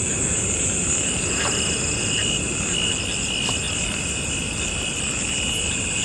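Night chorus of crickets and frogs: steady high-pitched trilling with some faster pulsed calls, over a low rumbling noise on the microphone.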